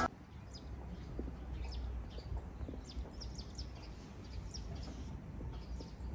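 Small birds chirping, many short high calls scattered throughout, over a low steady rumble.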